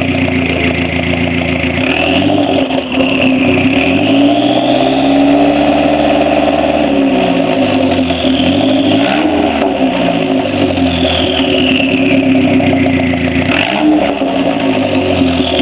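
Dodge SRT-4's turbocharged 2.4-litre four-cylinder, its exhaust cut to exit just ahead of the rear tire, being revved while stationary. It idles, climbs from about two seconds in to a high rpm held for a couple of seconds, drops back to idle, then gets two short blips of the throttle.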